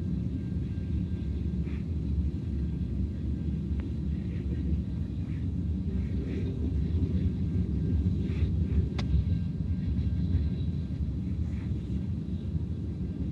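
Train rolling past with a steady low rumble, with a few faint clanks and one brief sharp tick about nine seconds in.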